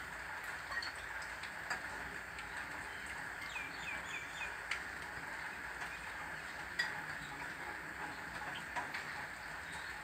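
Steady rain with scattered sharp ticks, the loudest about seven seconds in. In the middle a small bird gives a quick run of about five short, falling chirps.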